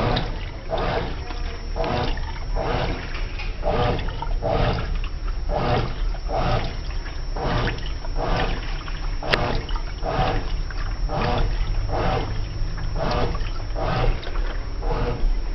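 Brastemp washing machine in its wash cycle, water sloshing in the drum in a regular back-and-forth rhythm of about two surges a second.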